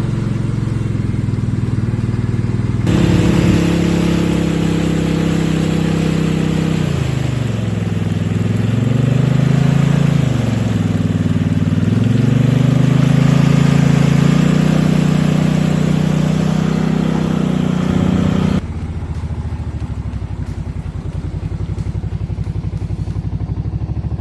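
A vehicle engine running at low revs, easing off and picking back up twice in the middle, with a steady hiss over it that cuts off suddenly near the end.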